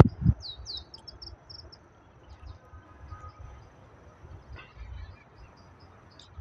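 A songbird calling: a few quick falling notes about half a second in, then a rapid run of short chirps, with fainter scattered chirps afterwards. A brief low thump right at the start, over a faint low rumble.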